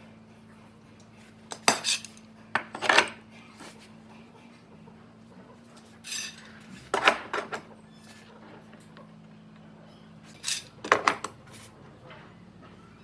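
Sharp clinks and knocks of hard objects being handled or struck, in three short clusters a few seconds apart, over a faint steady low hum.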